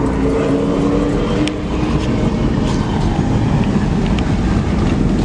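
Car engine running loud and steady, a low rumble with a droning tone through the first couple of seconds; the onlookers call it a cammed engine.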